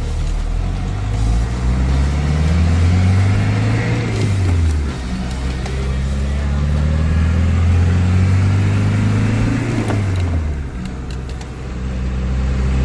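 Mercedes-Benz 240d four-cylinder diesel engine, swapped into a W115 220d, accelerating through the gears. Its pitch rises, falls at a shift about four and a half seconds in, rises again, and falls at a second shift about ten seconds in, then runs steady in third gear.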